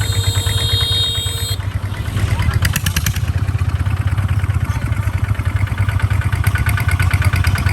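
Kubota tractor's diesel engine running steadily with a fast, even low thudding. A short clattering rattle comes through about two and a half seconds in.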